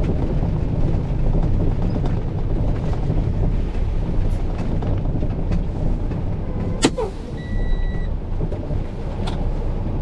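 Delivery truck's engine running with a steady low rumble. About seven seconds in there is one short squeak that falls in pitch, followed by a brief beep.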